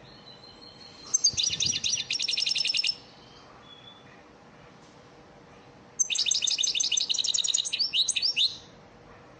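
European goldfinch singing a lesson song of the elmacık style: two bursts of rapid, twittering repeated notes, the first about a second in lasting about two seconds, the second starting about six seconds in and lasting about two and a half seconds.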